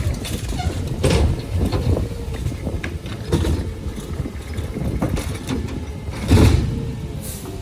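Garbage truck engine running with a low rumble, broken by several sharp bangs and clanks; the loudest thump comes about six seconds in.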